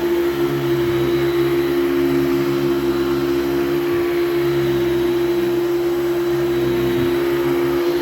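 Hoover Celebrity II Elite canister vacuum running steadily, its motor holding one strong, even hum.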